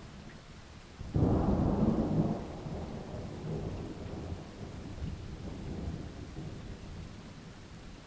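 Thunder clap breaking about a second in, loudest for the first second or so, then rumbling on and slowly fading over steady rain.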